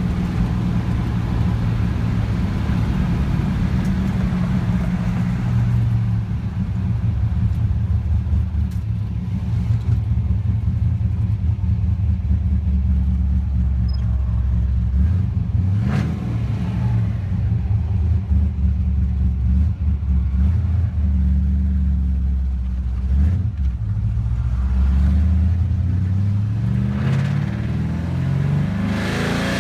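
1951 Chevrolet truck's engine running steadily, its pitch shifting with the revs and climbing in steps near the end.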